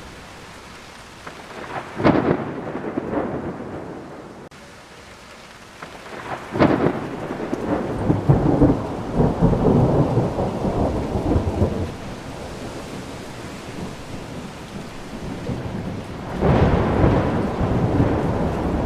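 Thunderstorm: steady rain with three claps of thunder, about two seconds in, six and a half seconds in and near the end; the middle clap rolls on for several seconds.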